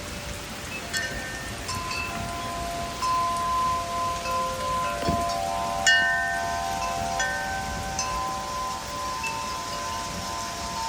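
Wind chimes struck by the gusts, several notes ringing out and overlapping, with fresh irregular strikes and the loudest about six seconds in, over a steady hiss of rain and wind.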